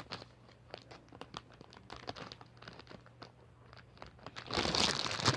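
Plastic packaging crinkling and rustling in the hands: light scattered rustles at first, then a loud burst of crinkling about four and a half seconds in.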